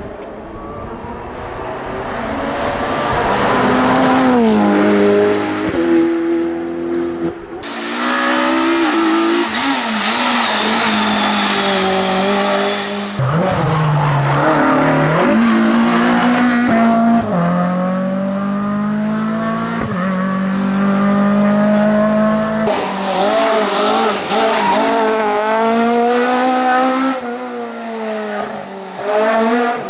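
Hillclimb race car engines at full throttle, pitch climbing through each gear and dropping at every shift. Several separate runs follow one another with abrupt cuts.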